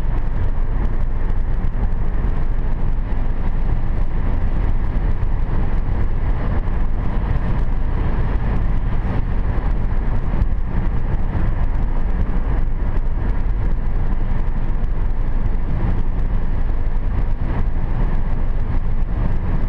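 Steady road and engine noise heard inside the cabin of a 2010 Hyundai Sonata V6 cruising at about 80 km/h on a wet road, with tyre hiss and a low rumble.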